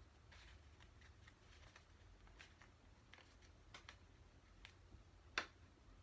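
Near silence with faint paper handling: light rustles and small scattered clicks as a glued paper piece is pressed and held, with one sharper click about five seconds in.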